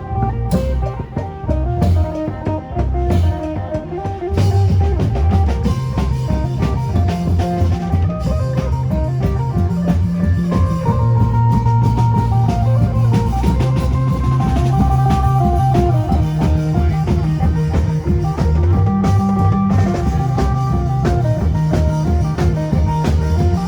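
Isan phin band playing lam phloen: a melody on the amplified phin lute over a driving drum-kit beat with bass drum, getting louder about four seconds in.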